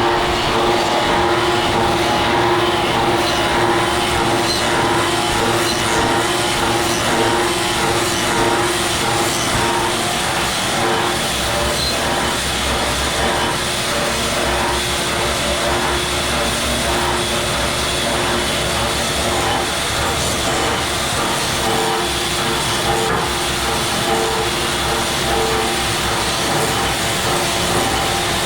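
Steady machine noise running throughout, with a constant hum over it, typical of workshop machinery at work.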